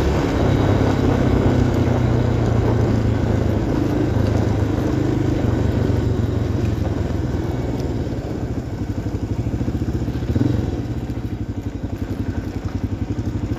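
Single-cylinder four-stroke engine of a 1990 Yamaha XT350 dual-sport motorcycle running under way. After about eight seconds it eases off to lower revs with a slower, pulsing beat.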